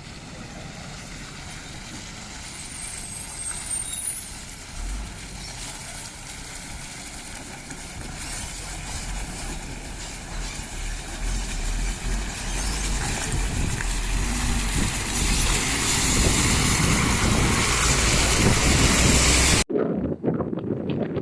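Heavy truck engine running with road noise, growing steadily louder, then cut off abruptly near the end, giving way to quieter outdoor noise.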